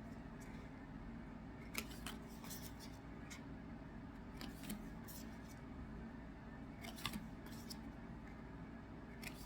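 Faint paper-and-foil handling of trading-card packs: brief crinkles and rustles of pack wrappers and cards, every second or two, with a few sharper ones about two seconds in and about seven seconds in.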